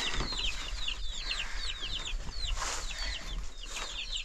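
A flock of birds peeping: a dense, continuous chorus of short, high chirps, each falling in pitch, overlapping several at a time, with a couple of faint knocks.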